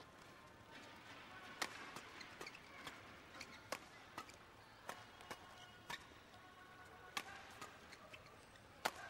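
Badminton rally: sharp racket strikes on the shuttlecock at irregular intervals, about one every half second to a second, over a low steady background.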